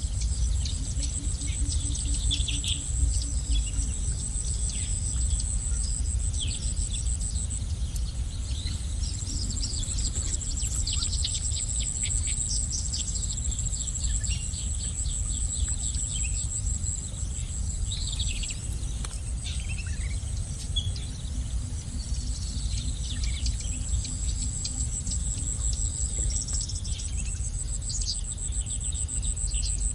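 Small songbirds chirping and twittering in short, scattered bursts, over a high, fast insect trill that fades and returns. A steady low rumble of background noise runs underneath.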